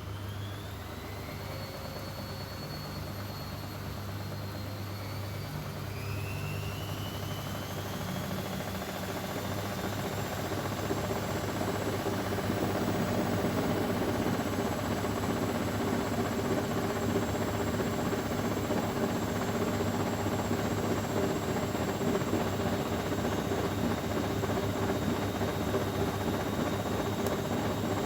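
Bosch Maxx WFL 248Y washing machine's drum motor speeding up into a spin: a whine rises in pitch and grows louder over the first ten seconds or so, then the machine runs on at a steady high spin speed.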